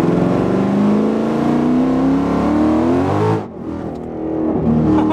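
Whipple-supercharged 5.0 Coyote V8 of a 2018 Mustang, heard from inside the cabin, pulling at wide open throttle. Its pitch rises steadily for about three and a half seconds, then falls away suddenly as the throttle is lifted and settles to a lower steady run. This is a tuning pull from about 2,000 to 4,500 rpm.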